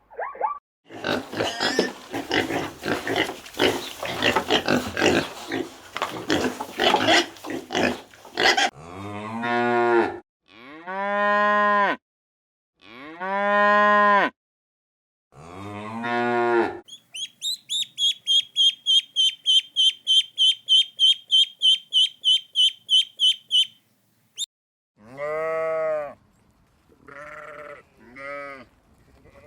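Cattle mooing: four long, deep calls in the middle of the clip. Before them come several seconds of rough noise; after them come a rapid run of high chirps at about three a second for some six seconds, and a few shorter calls near the end.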